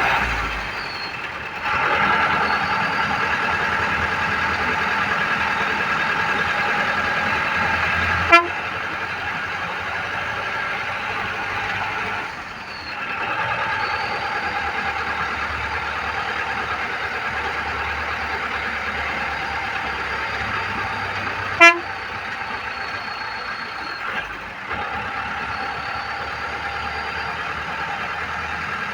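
A vehicle running steadily on the move. The sound drops briefly three times, and there are two sharp clicks, about 8 and 22 seconds in.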